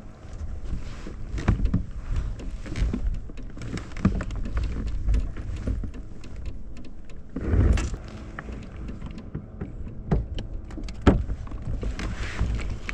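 Wind rumbling on the microphone with scattered knocks, clicks and rattles of handling in a kayak as a fish is landed. There is a louder rush of noise about eight seconds in and a sharp knock near the end.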